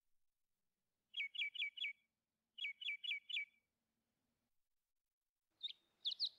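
A bird chirping in two short phrases of four quick, falling notes each, about a second and a half apart, with more chirps starting near the end.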